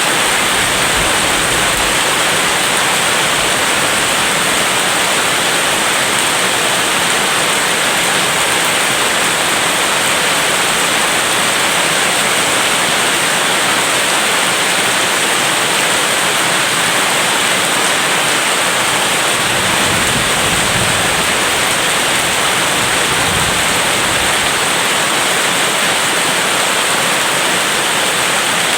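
Steady, heavy rain falling, an even hiss with no break, with a brief low rumble about twenty seconds in.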